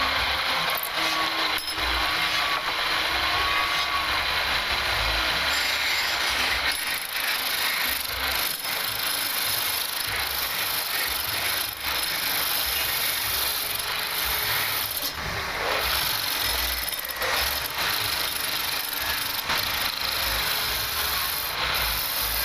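Wood lathe running while a turning tool cuts the spinning wood: a steady hiss of cutting, with occasional sharp knocks.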